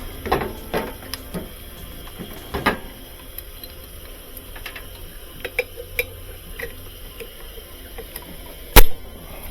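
Metal parts and hand tools clicking and knocking during reassembly of a washer's drive mechanism, with one sharp, loud knock near the end.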